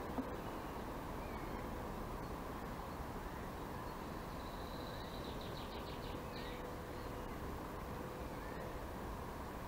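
Steady faint background hiss with scattered bird chirps and a short, high bird trill about halfway through.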